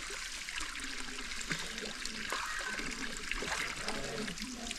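Running water of a stream flowing over rocks: a steady rushing hiss, with faint voices behind it.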